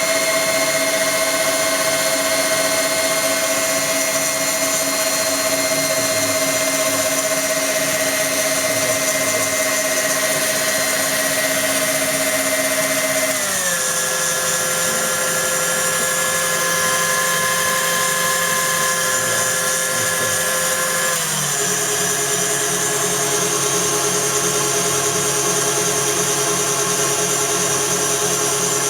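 KitchenAid Classic stand mixer's motor running with a steady whine. It steps down in pitch twice, about halfway through and again about three-quarters of the way in, as the speed setting is turned down.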